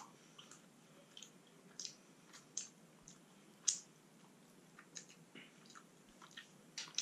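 A man chewing a piece of chicken with faint, scattered lip smacks and mouth clicks, one a little louder about midway. The chicken is tough, which he calls rubbery.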